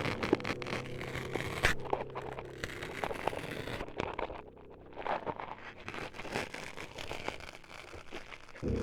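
ASMR sound-effect noises close on the microphone, meant to stand for the ears being chopped up: a dense run of small clicks and crackles. A low steady drone underneath drops out about two and a half seconds in and returns sharply near the end.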